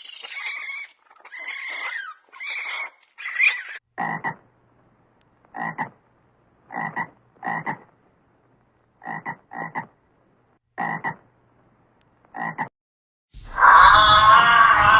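A series of about ten short croaking calls from an animal, spaced a second or so apart and sometimes in quick pairs. They follow a few seconds of higher, squeaky animal calls, and a loud sound with a held pitch cuts in near the end.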